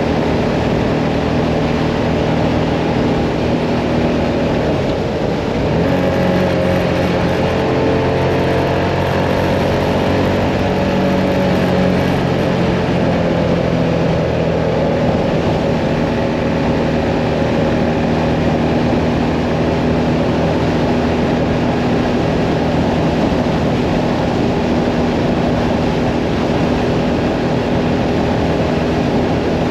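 Mirage 650 motorcycle engine running steadily at road speed, heard from on board with wind and road noise. About five seconds in, the engine note changes and grows stronger, then settles back to a steady drone.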